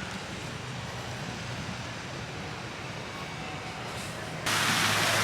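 Low steady background hum and noise, then about four and a half seconds in a loud, even hiss starts abruptly, like rushing water or air.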